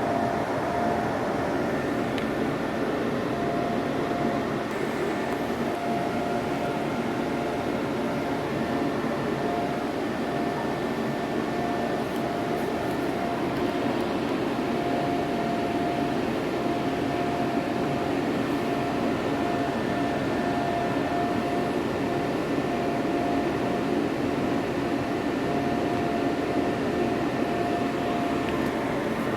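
A machine running steadily: an even hum with a constant whine held over it, which does not change.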